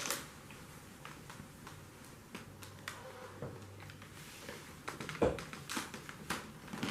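A cat chewing crunchy dry treats: faint scattered crunching clicks and taps, growing more frequent and louder near the end.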